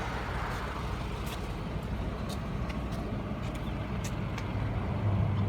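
Motor vehicle engine running with a steady low hum and road noise, growing a little louder near the end, with a few faint ticks.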